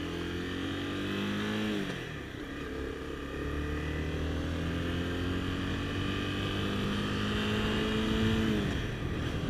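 Honda CBR250R's single-cylinder engine accelerating away from a turn, its pitch climbing, falling sharply at an upshift about two seconds in, then climbing steadily again to another upshift near the end.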